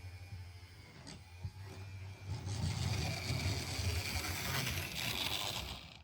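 Model train running on the layout: a steady motor hum with wheels rattling on the track, getting louder about two and a half seconds in as it comes closer, then cutting off suddenly at the end.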